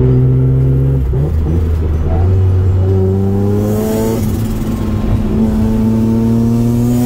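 Mazda RX-7 FD's single-turbo 13B twin-rotor rotary engine heard from inside the cabin, pulling through the gears. Its pitch climbs under acceleration, drops at a gear change about four seconds in, then climbs again. A short hiss comes with the change and again near the end.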